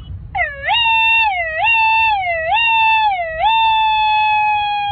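A person imitating an ambulance siren with their voice: a high, wailing tone that swoops up and down four times, about once a second, then holds a long, slowly falling note.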